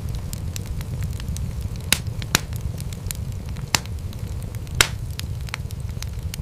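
Wood fire in a fireplace crackling, with a steady low rumble of the flames and scattered sharp pops. A few louder pops come about two, four and five seconds in, the one near five seconds the loudest.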